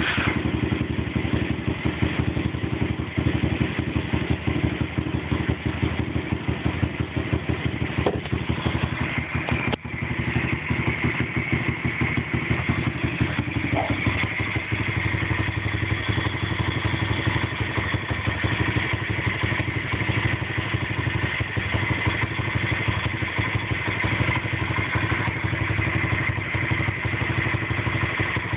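Single-cylinder four-stroke engine of a 110cc BXM pitbike idling steadily just after start-up, with a fast, even run of firing pulses.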